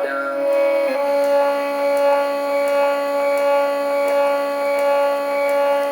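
Stepper motors of a CNC hot-wire foam cutter driving the wire through a foam block, giving a steady whine of several even tones, with a brief shift in pitch about a second in.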